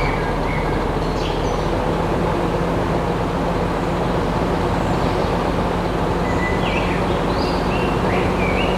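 A steady mechanical drone, like an engine or motor running, holds an even pitch throughout. Short bird chirps sound over it at the start and again near the end.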